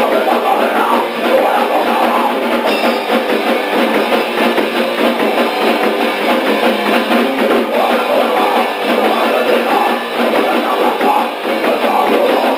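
D-beat raw punk band playing a distorted guitar and a fast, pounding drum kit. The demo recording is thin and lo-fi, with almost no low end.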